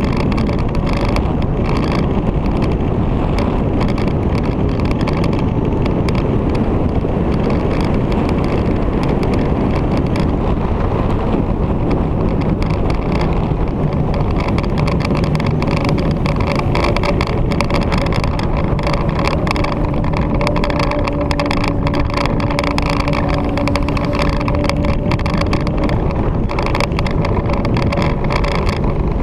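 Victory V-twin motorcycle running steadily at speed, with heavy wind rush over the microphone; a faint steady hum rises above the noise for about ten seconds in the middle.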